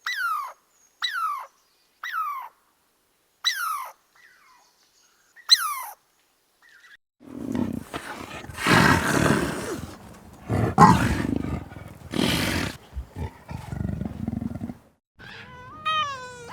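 Animal calls: five short calls falling steeply in pitch over the first six seconds, then a run of louder, harsh, rough calls from about halfway through.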